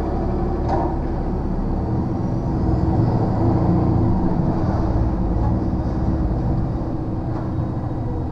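A lorry's diesel engine running steadily, heard from inside the cab while driving, with a single click about a second in; the engine grows a little louder around the middle.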